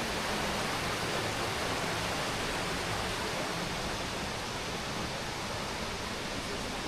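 Steady rushing of white water in the Río Curueño, falling water making an even, unbroken noise.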